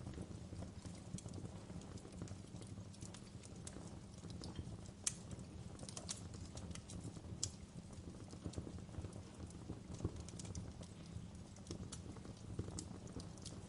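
Wood fire burning in a fireplace: a steady low rumble of flames with irregular sharp crackles and pops, the loudest about five, six, seven and ten seconds in.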